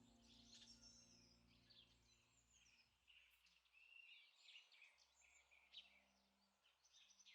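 Very faint birdsong: small birds chirping and twittering in short trills throughout. A low held note fades out over the first few seconds.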